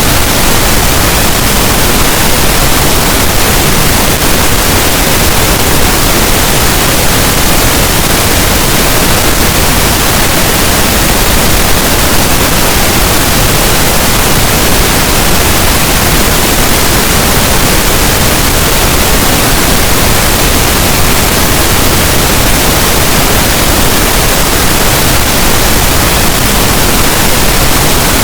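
Steady pink noise: an even, unchanging hiss spread across all pitches, played continuously as a sleep sound.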